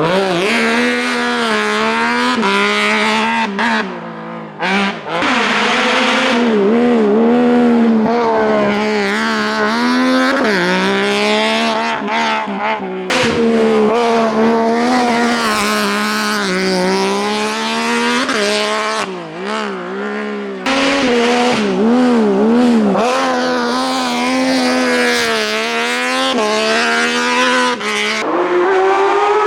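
Race car engine at high revs on a hillclimb run. Its pitch climbs and drops again and again as the driver shifts gears and lifts off and back on the throttle.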